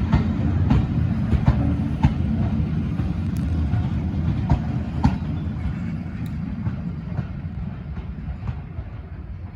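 Train running on rails: a steady low rumble with wheels clicking over rail joints. The clicks come about every two-thirds of a second at first, then space out, and the rumble fades toward the end.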